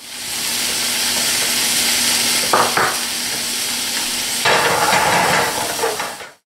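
Shrimp sizzling and frying in a hot pan, a steady hiss throughout. A couple of short clicks come about two and a half seconds in, and the sizzle grows fuller and louder from about four and a half seconds.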